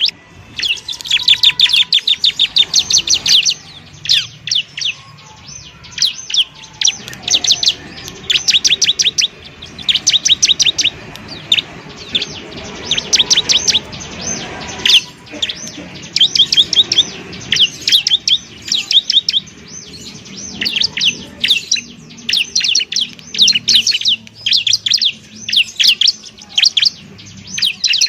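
Bar-winged prinia (ciblek) singing: repeated bursts of rapid, sharp, high chirping notes, each burst about a second long with short pauses between them.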